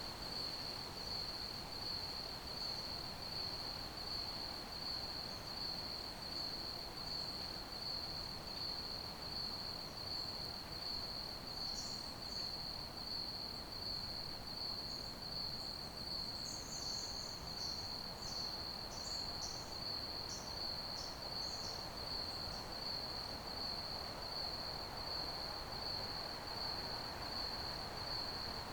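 Crickets chirping in one continuous, steady high trill over a soft, even hiss. A few brief, higher chirps come through in the middle.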